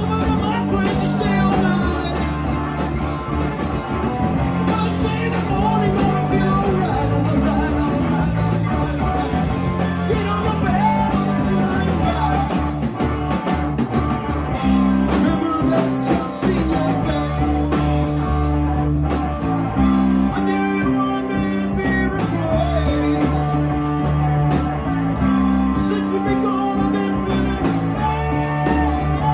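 Rock band playing a blues-rock song, with electric guitar, bass and drums and a singer's voice at times.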